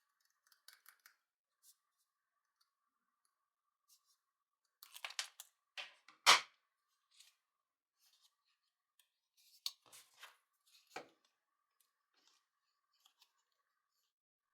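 A few short, sharp snips and clicks of hand work on a drill motor armature being rewound. The sharpest snip comes about six seconds in, with a faint steady high hum behind.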